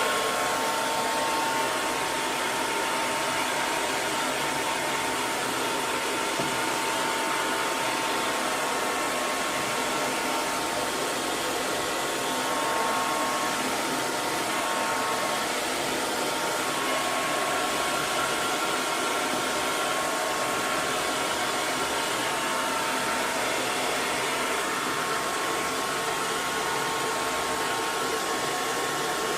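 Hair dryer blowing steadily: an even rushing hiss with a faint motor whine, unbroken throughout.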